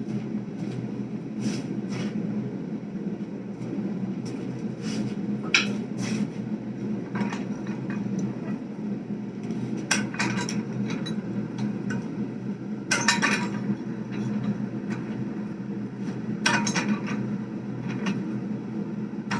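Hot damascus steel bar being squeezed straight and flat in a vise: scattered, irregular metallic clanks and clinks of steel on steel over a steady low drone, with the loudest clank about two-thirds of the way in.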